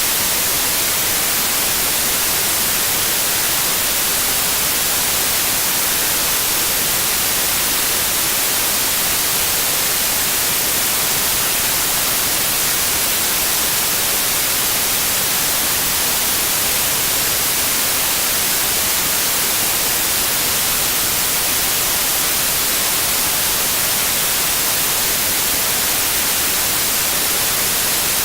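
Steady, unbroken white noise: an even, loud hiss across the whole range, brightest in the treble.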